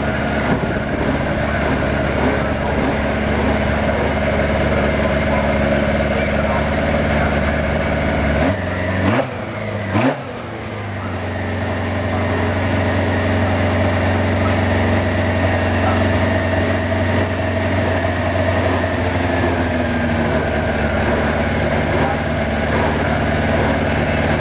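Historic race car engine idling steadily with its bonnet open. About nine seconds in it is revved twice in quick succession, then it drops back to a steady idle.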